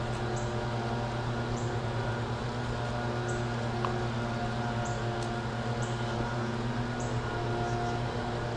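A steady, low mechanical hum made of several even tones, with short high chirps, probably from a bird, repeating about once a second over it.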